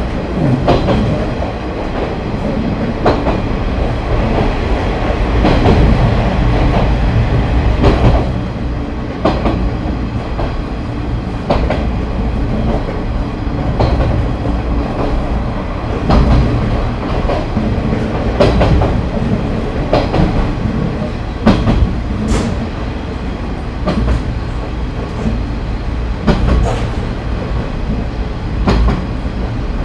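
JNR KiHa 30 diesel railcar running along the line: a steady rumble of engine and wheels, broken by irregular clacks as the wheels pass over rail joints.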